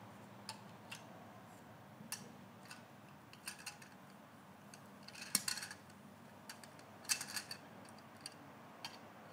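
Irregular light clicks and small hard clatters over a faint hum, with a louder cluster of clicks about five seconds in and another about seven seconds in.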